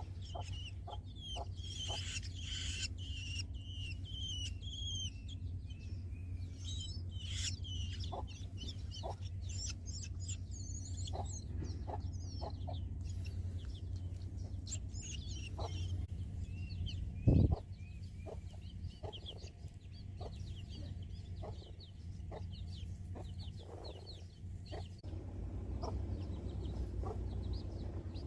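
Nestlings giving rapid high-pitched chirping begging calls, thickest in the first half, over a steady low rumble. One sharp knock about two-thirds of the way through.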